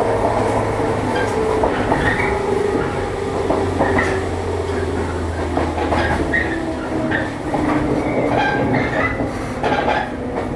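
JR East 115-series electric multiple unit running on the line, heard from inside the passenger car: a steady low hum and drifting motor and gear tones, with the wheels clicking over rail joints and a few short high squeaks.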